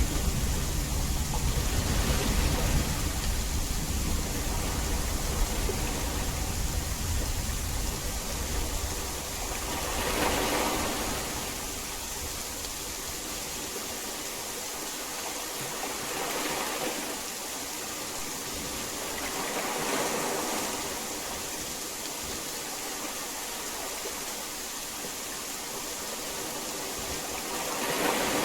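Steady heavy rain, with a low rumble of thunder dying away over the first several seconds. The rain swells and eases a few times after that.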